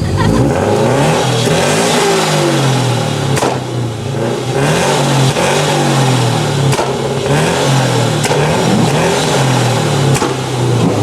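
Car exhaust revved hard over and over, likely on a two-step launch limiter, its pitch rising and falling again and again, with a few sharp cracks.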